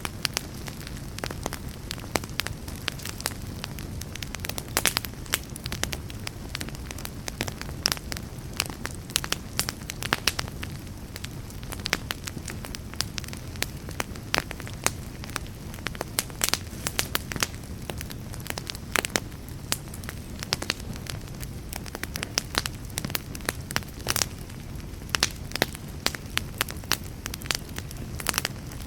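Fire crackling in a fireplace: irregular sharp pops and snaps, some much louder than others, over a steady low rumble of the flames.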